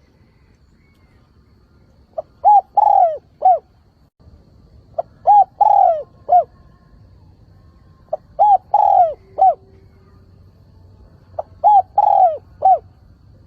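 Spotted dove cooing as a lure call: four repeated phrases, each a short lead note then three coos with the middle one drawn out, about one phrase every three seconds.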